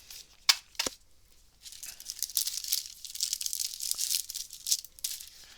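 A couple of sharp clicks, then a few seconds of crackling as a trading-card booster pack's wrapper is torn open and crinkled.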